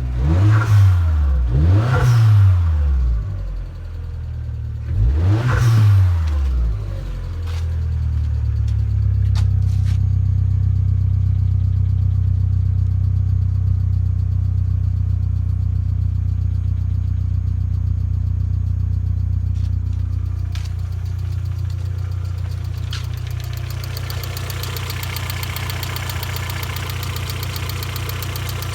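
Vauxhall Zafira GSi's 2.0 turbo petrol engine, cold, blipped three times in the first few seconds and then left idling steadily. The idle note settles slightly lower about two-thirds of the way through.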